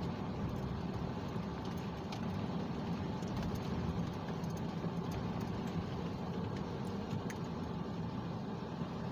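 Steady engine and road noise inside a moving car's cabin on snowy roads, with a few faint ticks.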